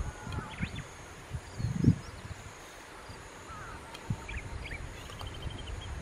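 Wild birds calling in the background: scattered short chirps and whistles, with a quick run of high ticks near the end. Low muffled bumps sit underneath, the loudest about two seconds in.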